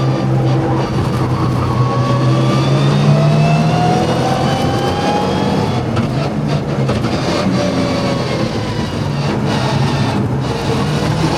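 Mitsubishi Lancer Evo VI Group A rally car's turbocharged four-cylinder engine under hard acceleration on track. The revs climb steadily through the first few seconds, then change about six seconds in, with a few short sharp cracks around the change and again near the end.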